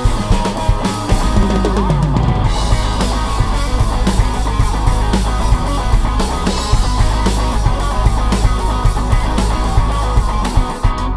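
Live rock band playing an instrumental passage between vocal lines, with a drum kit keeping a busy, steady beat over bass and guitar.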